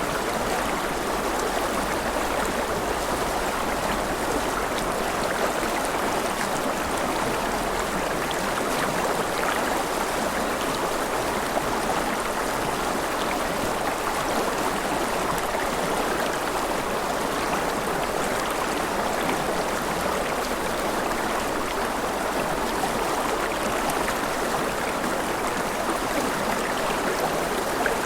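Mountain river flowing over rapids, a steady rushing of water without change.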